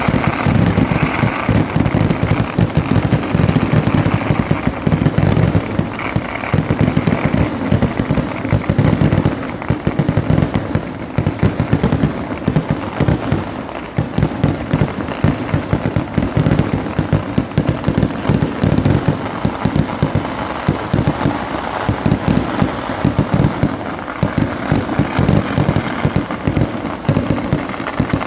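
Kerala temple-festival fireworks (vedikkettu): a dense, continuous barrage of firecracker blasts, many bangs each second, running without a break.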